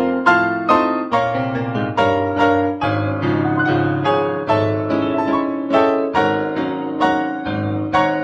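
Solo piano playing a slow prelude, a steady flow of single struck notes and chords, each ringing and fading before the next.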